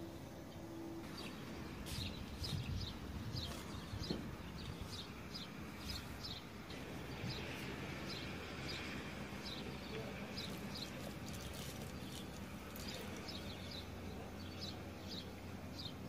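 Small birds chirping outdoors: many short, high chirps scattered throughout, over a steady low background rumble.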